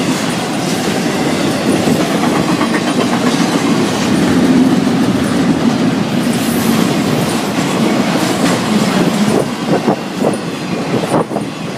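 Freight cars of a Florida East Coast Railway train rolling past, a steady rumble of steel wheels on the rails with rhythmic clickety-clack over the rail joints, the clicks sharper near the end.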